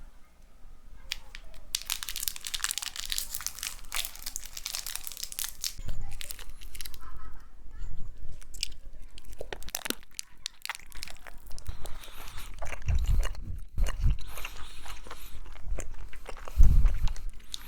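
Close-miked biting and chewing of crispy KFC fried food: crunchy crackling bites, then wetter chewing with low thumps, the loudest bite near the end.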